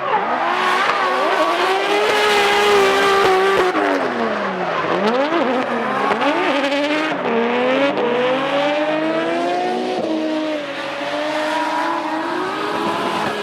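Two Nissan Silvia S13 drift cars sliding in tandem: engines revving high, pitch dropping sharply about four seconds in and climbing again, over the hiss of sliding tyres.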